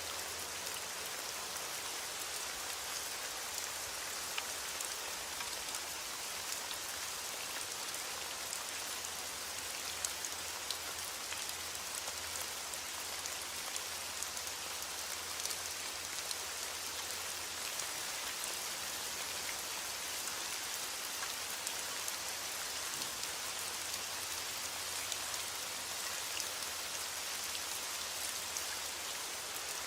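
Steady rain falling on a surface, an even hiss flecked with many small drop ticks.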